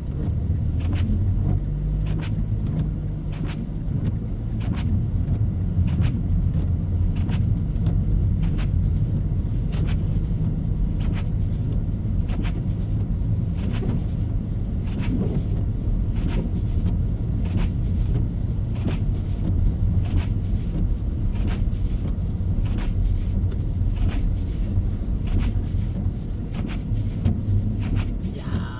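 Car cabin noise while driving on a snow-covered road: a steady low engine and tyre rumble, with faint regular clicks running through it.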